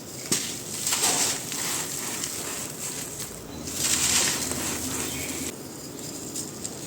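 Dry, grainy black sand shapes being crushed and crumbling, a gritty crunching and crackling. A sharp snap comes about a third of a second in, with louder crunching bursts around one second and again around four seconds.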